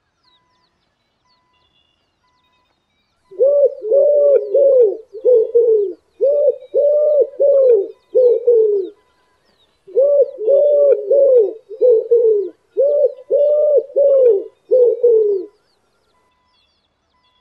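A dove cooing: two matching runs of about eight quick, arched coos each, the first starting about three seconds in and the second after a pause of about a second, with faint small bird chirps behind.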